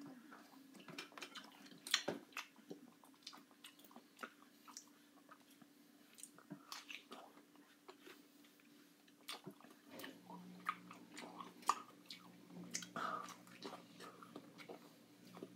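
A person chewing and biting fresh pineapple chunks up close: faint, irregular wet smacks and crunches, with a sharper one about two seconds in. A faint steady low hum comes on about ten seconds in.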